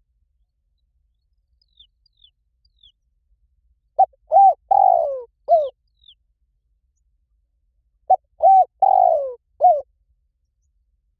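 Spotted dove cooing twice, each phrase four low notes with the third the longest and falling in pitch. Faint, short, high chirps of a small bird come in between the phrases.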